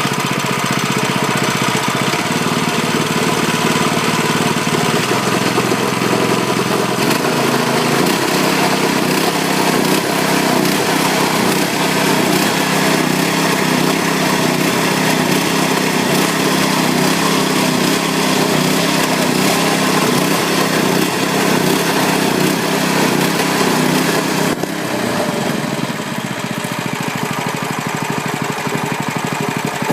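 Lifan 6.5 hp single-cylinder four-stroke mini bike engine running after a cold start, its speed shifting a few times early on, then dropping to a lower, quieter run about 25 seconds in.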